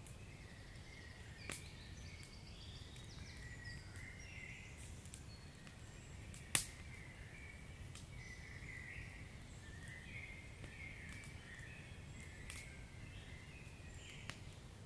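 A log fire burning with a low steady rumble, scattered sharp pops and faint high whistling chirps. The loudest pop comes about six and a half seconds in, with smaller ones near one and a half seconds and near the end.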